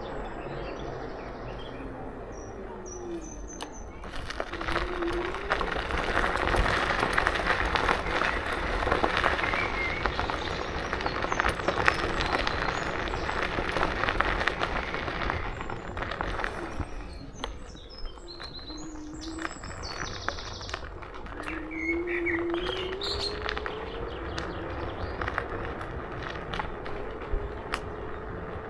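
KuKirin G2 electric scooter on the move: its motor whine rises in pitch as it picks up speed, once near the start and again about two-thirds through, with wind and tyre noise in between. Birds chirp in the background.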